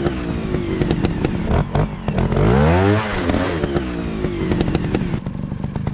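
Dirt bike engine revving, its pitch rising and falling in a swell about halfway through, with many sharp clattering knocks throughout.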